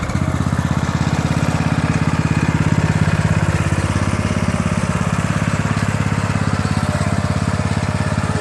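Engine of an antique riding lawn mower running steadily, a low, even, rapid putter that holds at one speed.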